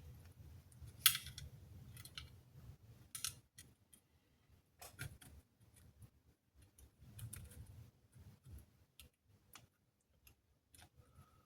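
Scattered light clicks and taps of small tools and parts being handled on a workbench, with a sharper click about a second in.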